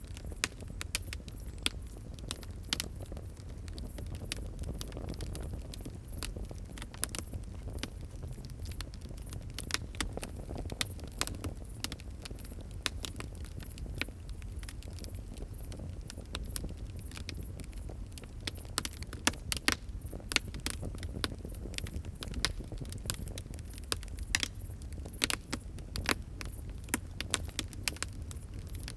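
Wood fire crackling and popping: a steady low rumble of burning with many irregular sharp snaps, thicker in the second half.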